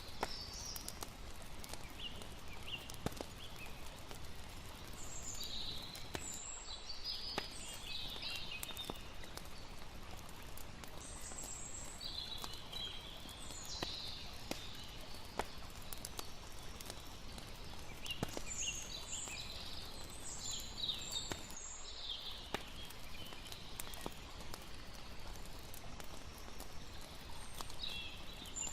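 Layered night campfire ambience: a campfire crackling in scattered sharp pops over a steady low wash of lapping water, with high chirping calls of night creatures coming in irregular clusters throughout.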